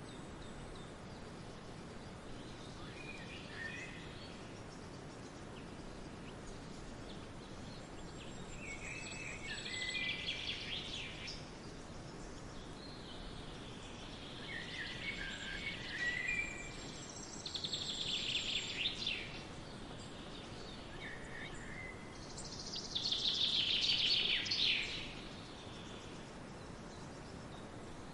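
Songbirds singing in a forest over a steady outdoor background hiss, in several separate bursts of song, the loudest near the end.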